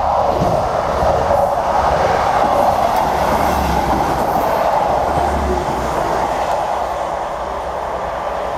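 A train running through the station at speed without stopping: a loud, steady rush of wheel and running noise on the rails, easing off slightly toward the end.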